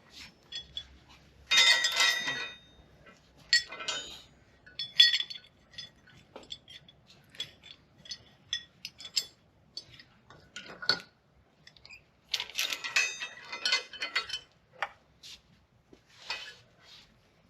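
Steel lifting chain being handled and rigged for an engine hoist, rattling and clinking in short bursts, loudest about two seconds in and again after about twelve seconds, with scattered single clinks between.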